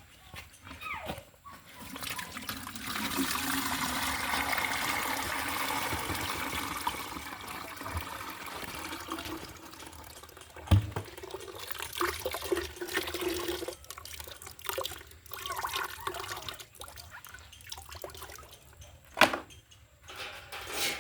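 Liquid poured steadily into a poultry drinker for several seconds, starting about two seconds in, then scattered knocks and taps of the container being handled, two of them sharp.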